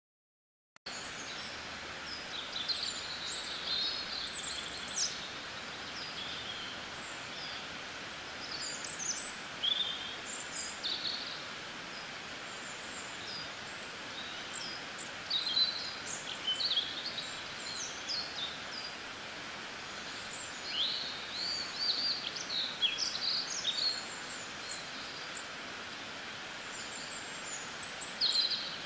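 Small birds chirping and calling in short scattered bursts over a steady background hiss, starting about a second in after silence.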